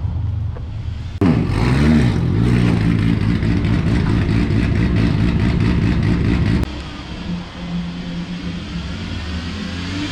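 About a second of street noise, then a modified drift car's engine running loud and close, dropping in pitch at first and then idling unevenly. A little over six seconds in, it cuts abruptly to a quieter, steadier running sound.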